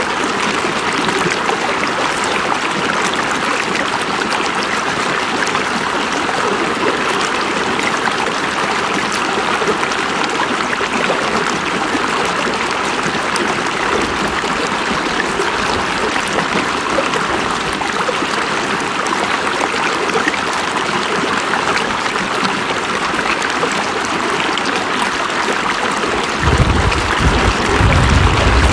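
River water running steadily, with an even rushing sound and no let-up. A low rumble joins it briefly about halfway through and again near the end, making it a little louder.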